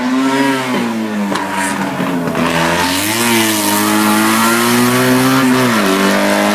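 Racing car's engine at high revs on a hillclimb run, its pitch dipping and climbing several times as the driver works the throttle and gears, with a sharper drop in pitch near the end.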